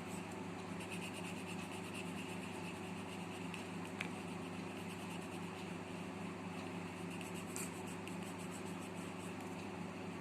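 Pencil sketching on paper: quick, rapid strokes of graphite scratching and rubbing, over a steady low hum. One sharp click about four seconds in.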